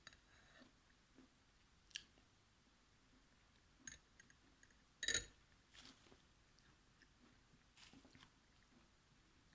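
A person biting and chewing something crunchy close to the microphone: a few sharp crunches, the loudest about halfway through, between faint chewing.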